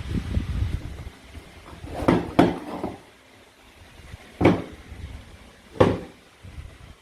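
Toy play food and a toy knife being handled on a cutting board: rustling at first, then four sharp clacks, two close together and two spaced about a second apart.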